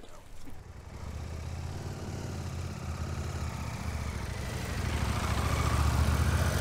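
Adventure motorcycle engine running, growing steadily louder from about a second in.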